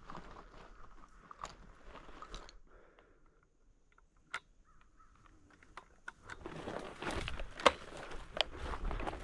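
Footsteps crunching and brushing through dry grass and brush, quieter for a few seconds in the middle, then louder and denser from about six and a half seconds in.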